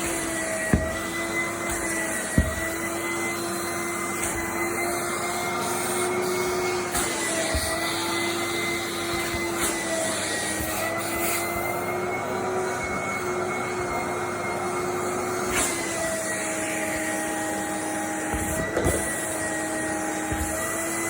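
Vacuum cleaner running steadily with a whining motor hum over a rushing hiss, its pitch dipping slightly now and then. A couple of sharp knocks come in the first few seconds.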